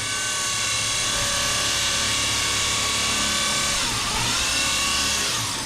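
A power tool's motor running steadily with a whining tone. Its pitch dips and recovers about four seconds in, and again near the end.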